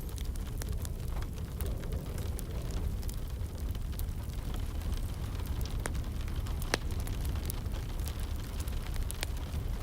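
Wood fire crackling, with scattered sharp pops, over a steady bed of rain with a low rumble.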